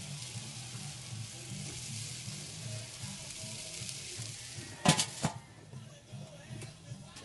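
Sauced chicken wings sizzling on the grate of a charcoal kettle grill, a steady hiss that drops off after two sharp clanks about five seconds in.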